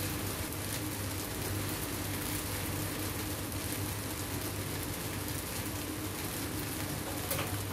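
Rice vermicelli stir-frying in a wok: a steady sizzle with light crackling as it is tossed, over a low steady hum.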